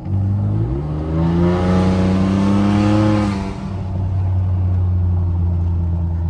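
Ford 2.7 EcoBoost twin-turbo V6 with catless downpipes and no muffler or resonator, accelerating hard. The engine note climbs for about three seconds, drops at a shift, then settles into a steady loud drone, heard from inside the cab.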